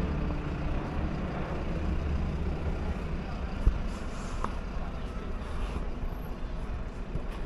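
Steady low mechanical rumble, like an engine running nearby, with a single sharp knock about three and a half seconds in.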